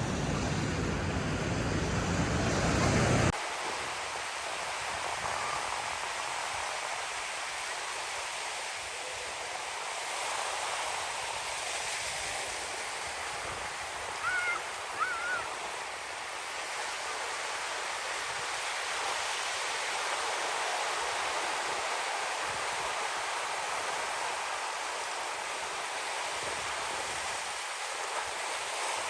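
Ocean surf: a low rumble of breaking waves for the first few seconds, then it cuts abruptly to a steady hiss of washing water. A brief high call comes about halfway through.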